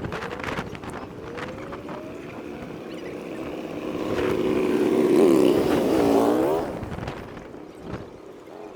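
A motor vehicle driving past: its engine grows louder over a few seconds, wavers in pitch as it passes, then fades away.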